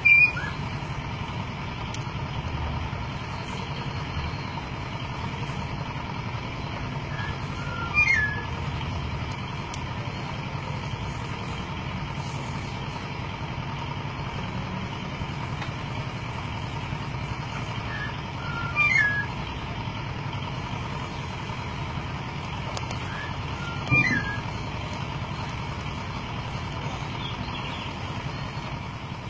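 Golden myna giving short, loud whistled calls, four of them several seconds apart, each sliding down in pitch, over a steady low background drone.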